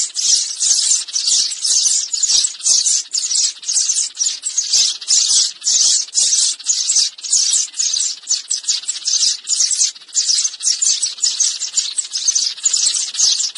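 Sparrows chirping rapidly and without pause, about three or four high, sharp chirps a second: a sparrow lure call recording.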